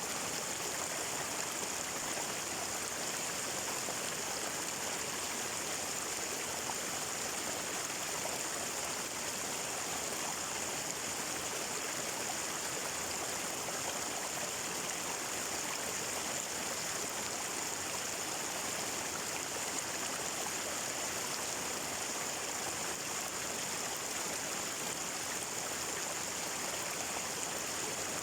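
Water flowing in a stream, a steady, unbroken rush with a bright hiss.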